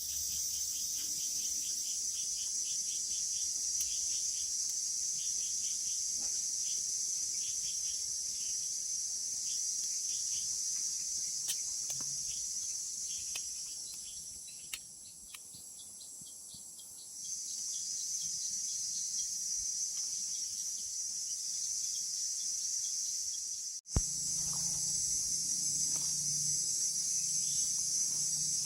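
Forest insect chorus: a steady high-pitched buzz with a fast, even ticking beneath it through the first half. The buzz drops away about 15 seconds in and returns about two seconds later. A sharp click about 24 seconds in is followed by the chorus with a low steady hum under it.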